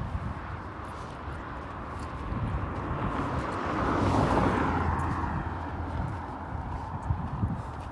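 A vehicle passing by, its tyre and engine noise swelling to a peak about halfway through and then fading, over a steady low traffic rumble.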